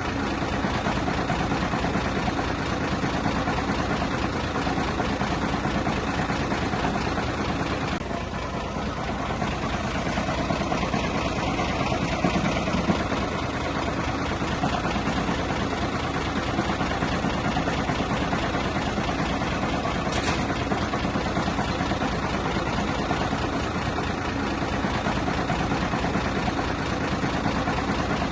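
Heavy earthmoving machine's diesel engine running steadily, with a brief dip in loudness about eight seconds in.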